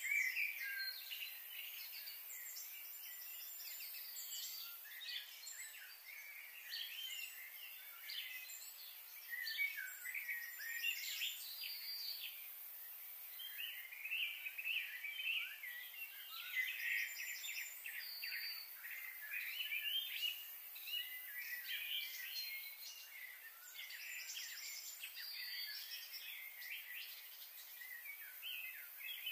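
Birds chirping and calling: many short, quick high notes overlapping almost without a break.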